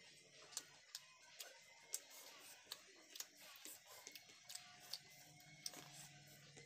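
Faint, irregular wet clicks and lip smacks of close-up chewing, one or two a second.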